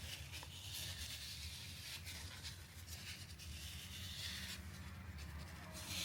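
Faint rubbing and scuffing that comes and goes, with a few light ticks, as the fan motor's parts are handled.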